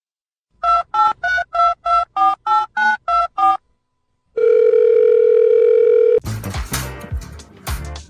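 Telephone keypad dialing: eleven quick touch-tone beeps, each a pair of notes sounded together, then a steady telephone tone held for about two seconds. After that, a busy jumble of mixed noise takes over.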